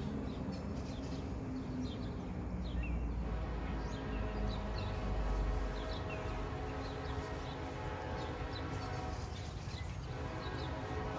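Low rumble of a diesel locomotive, with a steady engine drone that sets in about three seconds in, and birds chirping.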